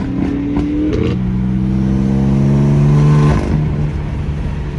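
Car engine accelerating hard. The revs climb, dip briefly about a second in, then climb again for about two seconds, getting louder, before dropping away.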